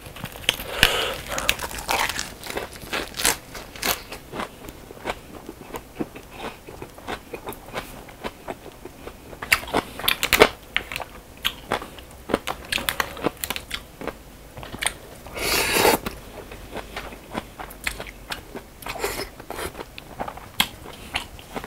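Close-miked chewing and crunching of a lettuce wrap filled with braised pork trotters, garlic and onion, with wet mouth clicks and occasional taps of wooden chopsticks on plastic food trays. A brief louder rushing noise comes about 15 seconds in.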